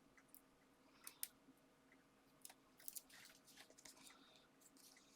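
Faint rustling and small clicks of paper craft pieces and foam pads being handled, with a sharper click about a second in and a cluster near three seconds.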